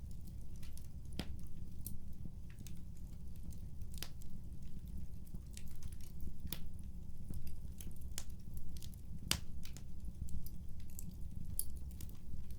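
Wood fire crackling: irregular sharp pops and snaps, a few of them louder, over a steady low rumble of burning.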